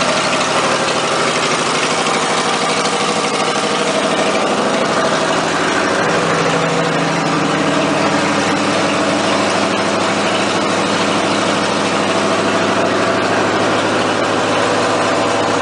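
1976 Ford pickup truck's engine idling steadily just after a cold start, running with no radiator fitted so it will overheat if left running.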